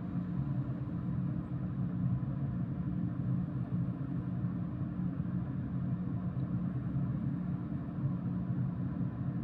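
Steady low drone of a running engine: a few even hum tones over a rumble that holds constant throughout.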